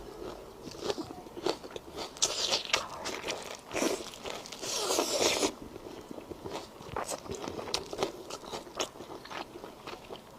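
A person eating close to the microphone: crunchy bites and chewing. There is a louder spell of crunching about two seconds in and another from about four to five and a half seconds in, then softer, scattered chewing clicks.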